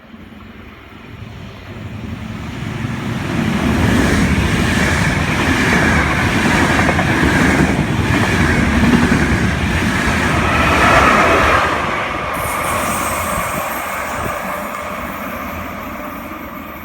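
Train running along the track, growing louder over the first few seconds, staying loud for about eight seconds, then slowly fading. A faint wheel squeal rides on top.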